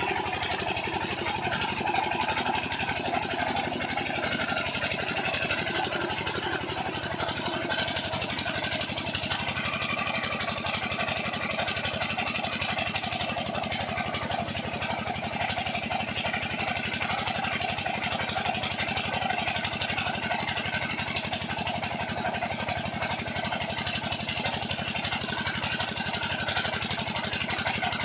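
Single-cylinder diesel engine of an 8 hp irrigation water pump set running steadily at a constant speed.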